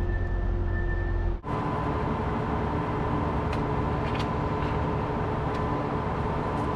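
Heavy diesel truck engine running steadily, a low drone with a constant hum; about a second and a half in it cuts abruptly to another steady engine drone with a higher whine over it.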